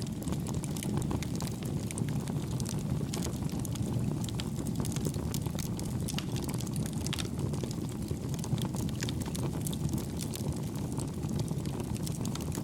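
Wood campfire burning with a steady low rumble of flames and many small, soft crackles and pops scattered throughout.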